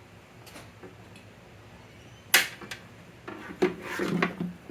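Workshop handling noises: low room tone, then a single sharp click a little past two seconds in, followed by a run of knocks and rubbing near the end as scooter fuel-tank parts and tools are handled.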